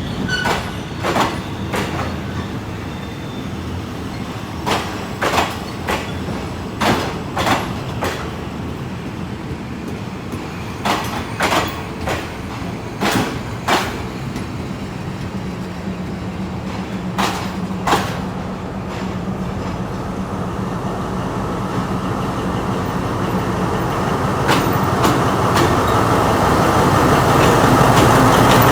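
Train wheels clacking over rail joints at slow speed, the clacks mostly coming in pairs about half a second apart as each bogie's axles cross a joint. Over the last ten seconds a steady diesel engine drone builds up louder.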